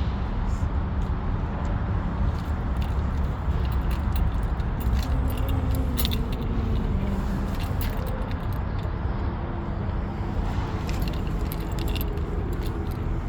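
A steady low rumble with many small clicks and metallic jingles scattered through it.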